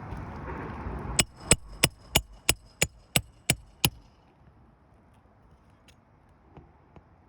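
A hammer striking metal on a shingle roof: nine quick, sharp blows with a high metallic ring, about three a second, starting about a second in. A second of rough noise comes before them.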